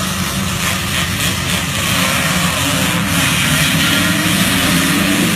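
Vintage motocross bike engines running hard on the track. Several engines overlap, with their pitch rising over the second half.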